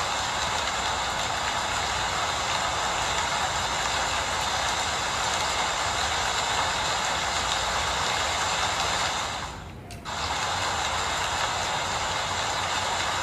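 Steady rain falling, an even hiss. About ten seconds in it dips briefly, then cuts straight back in.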